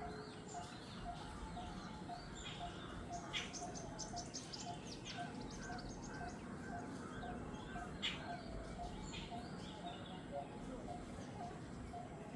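Jungle bird chorus: one bird repeats a short note about twice a second while others chirp and call, with a quick rattling trill about three to five seconds in.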